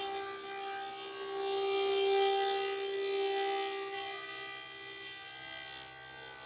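Steady whine of an electric motor running, swelling louder about two seconds in and easing off after about four seconds.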